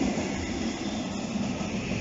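Freight train of loaded flat wagons rolling past: a steady deep rumble of steel wheels on the rails.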